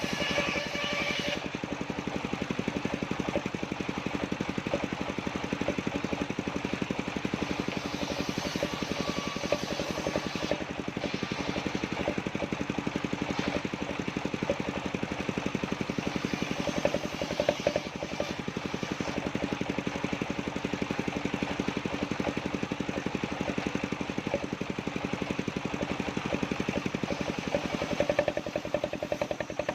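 The engine powering a circular-saw sawmill runs steadily throughout, with a rapid even pulse from its firing. About a second and a half in, an extra higher-pitched sound cuts out.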